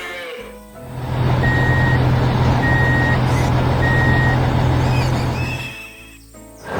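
A heavy truck's engine rumbling while its reversing alarm beeps three times, evenly spaced about a second apart. The sound fades out near the end.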